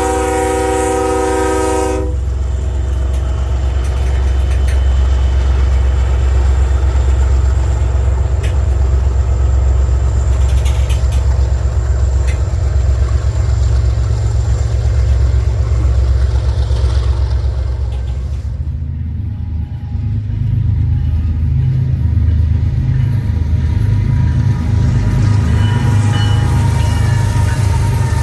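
Train horn sounding a chord that cuts off about two seconds in, followed by the loud, deep, steady rumble of the passing train's locomotives. Around two thirds of the way through, the rumble turns rougher and throbbing.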